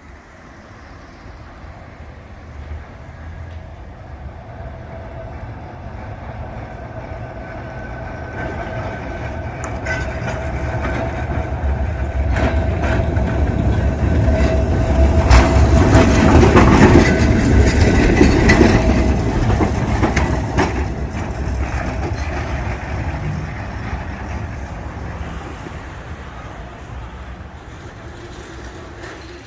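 Tram passing close by on its rails: a steady electric motor whine over wheel rumble grows louder, peaks a little past halfway with a run of sharp clicks from the wheels on the track, then fades as it moves away.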